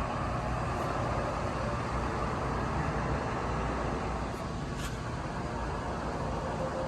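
Dover hydraulic elevator's power unit, its electric motor and pump running with a steady hum.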